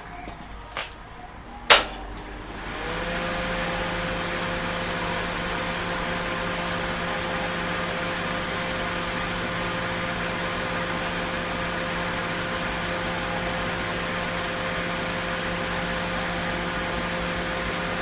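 Two sharp clicks, then a hot-wired microwave oven starts up and runs with a steady hum and a faint high tone. Its fan, turntable motor and magnetron are wired straight to the mains, with no fuses or current limiting.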